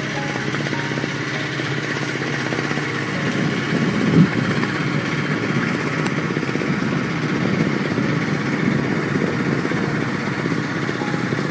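A boat's engine running steadily, with a brief louder swell about four seconds in.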